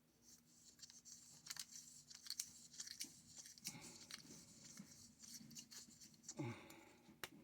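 Teflon thread-seal tape being pulled off the roll, wrapped onto pipe threads and torn: faint crinkling and tearing with scattered small clicks.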